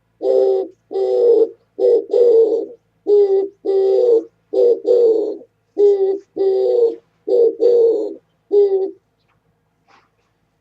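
Oriental turtle dove cooing close by: a run of low, hoarse coos in repeated short-long phrases, the species' song, stopping about nine seconds in.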